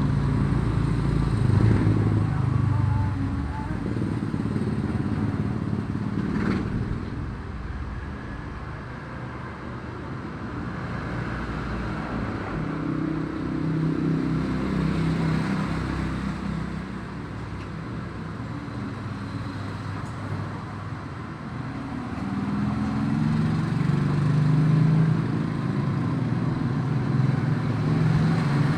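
Motor vehicle engines passing, their sound swelling and fading several times, with a single sharp knock about six and a half seconds in.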